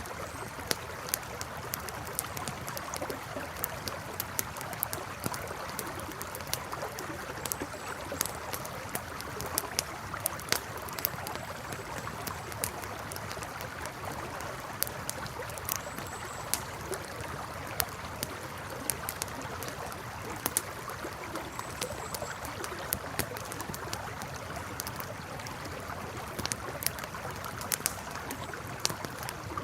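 Campfire crackling, with sharp irregular pops and snaps, over the steady rush of a flowing river.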